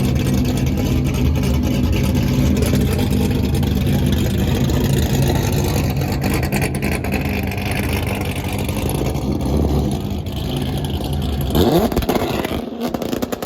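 Car engine running loudly with a deep, steady exhaust drone, then a quick rev that rises in pitch near the end.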